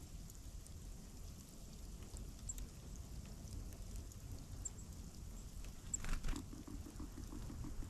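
Outdoor ambience of low wind rumble on the microphone, with a few faint, very short high chirps from small birds. A brief rustle, the loudest sound, comes about six seconds in.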